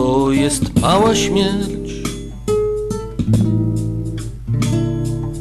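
Acoustic guitar playing a song's instrumental introduction, with strummed and plucked chords ringing out.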